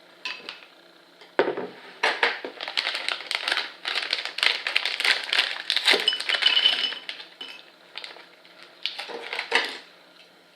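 A small plastic snack pack being torn open and crinkled, with the hard baked edamame pieces inside clicking and clinking against one another. There is a dense run of crackling and clicking, then a few scattered clicks near the end.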